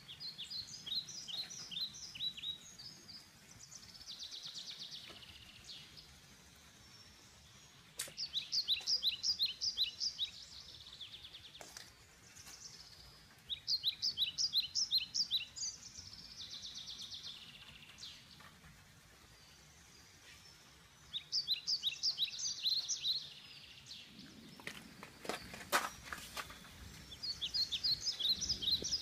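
A songbird singing in dubbed-in jungle ambience. Each phrase is a quick run of about ten high, downward-slurred notes followed by a softer buzzy trill, repeated about every six to seven seconds.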